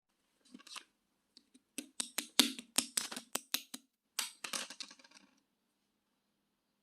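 Translucent slime being squished and pressed by hand, making a quick run of sharp, wet clicking pops, about a dozen over four or five seconds, that stop shortly before the end.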